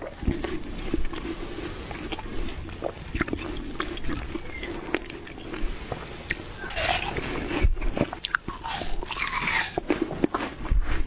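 Close-miked biting and chewing of juicy watermelon: crisp wet crunches and slurpy smacking, with a denser stretch of crunching a little past the middle.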